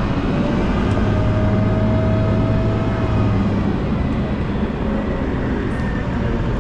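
Volvo L90H wheel loader's diesel engine running steadily under load while plowing snow, a low drone with faint higher whines over it.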